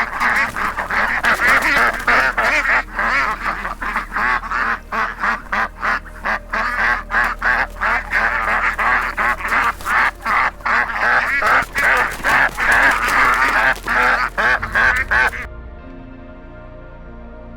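A flock of waterfowl calling loudly, a dense stream of short, rapid calls that cuts off suddenly near the end, over soft background music.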